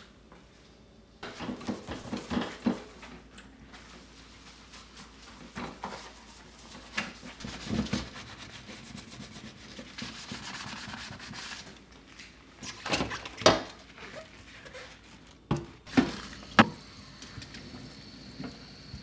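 Scrubbing and rubbing on a kitchen surface in uneven strokes, with several sharp knocks of objects being set down, the loudest in the second half.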